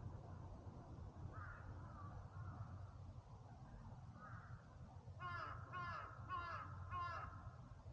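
A crow cawing: two faint calls, then four louder harsh caws in an even series about two-thirds of a second apart near the end.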